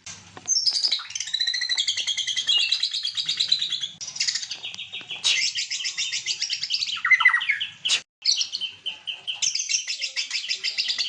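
White-rumped shama (murai batu) singing a long run of rapid trills and chattering phrases, with a short break about eight seconds in.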